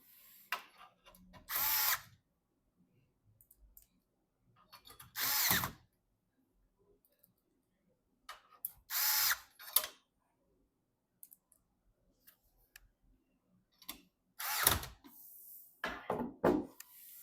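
Power screwdriver whirring in short bursts of under a second, about six times with pauses of a few seconds between, as it drives screws into a PC case.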